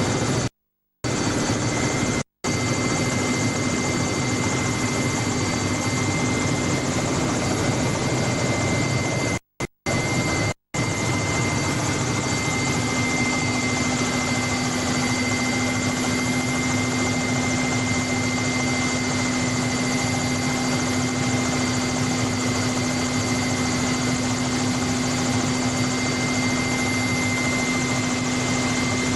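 Helicopter running in flight, heard from on board: a steady drone with a steady high whine over it. It cuts out to silence a few times, briefly near the start and for about a second around ten seconds in.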